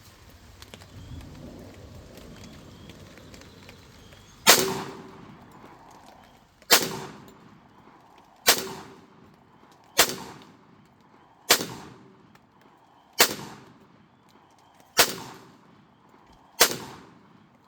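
Taurus 1911 pistol fired eight times in a slow, steady string, one shot every second and a half to two seconds, each a sharp crack with a short echoing tail; the shooting starts about four and a half seconds in.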